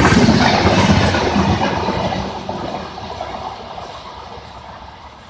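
Pune–Mumbai Intercity Express passenger train running through the station without stopping, its coaches rumbling and clattering over the rails. The sound is loud at first and fades away steadily from about two seconds in as the train moves off.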